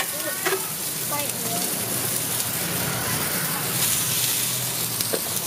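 Pad Thai frying on a large flat griddle: egg, bean sprouts and rice noodles sizzling steadily in oil, with a metal spatula clicking against the griddle a couple of times.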